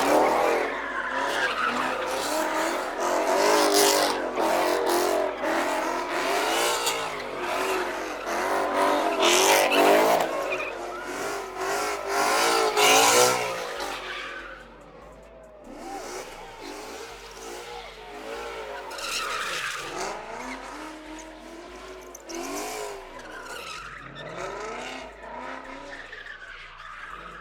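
Car tyres squealing in long wavering screeches over running engines as cars are spun and driven hard, loud through the first half and weaker after about fourteen seconds.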